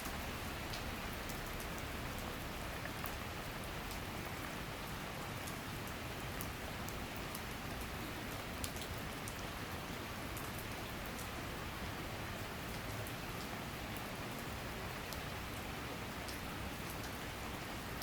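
Steady summer rain shower, a continuous even hiss of rainfall with many scattered sharp ticks of individual drops striking nearby surfaces.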